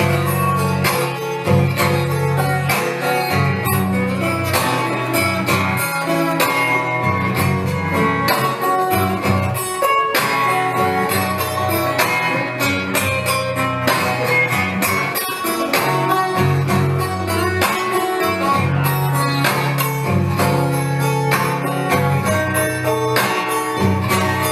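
Acoustic guitar playing an instrumental break of a country-blues song, dense picked notes over a steady bass line.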